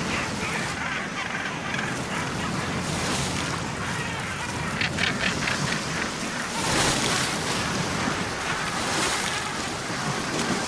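Sea water and waves: a steady rush of surf and churning water, swelling in hissing surges a few times, with a brief flurry of quick sharp sounds about five seconds in.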